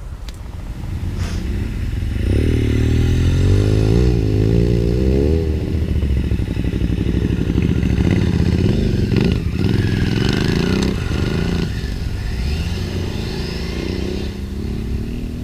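Motorcycle engine running and revving, its pitch rising and falling with the throttle. It gets louder over the first couple of seconds.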